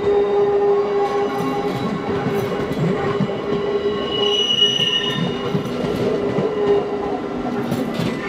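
A passenger train running fast past a level crossing, the steady rush of wheels on rail with a brief high wheel squeal about four and a half seconds in, fading near the end as the train clears. Under it, the crossing's warning bell rings.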